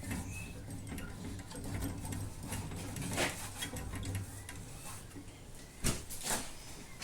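Short hisses of an aerosol cleaning spray, once about three seconds in and again near the end, with a sharp click and light handling noises over a low steady hum.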